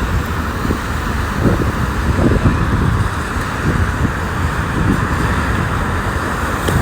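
Steady roar of a jet airliner taking off, with an uneven low rumble underneath.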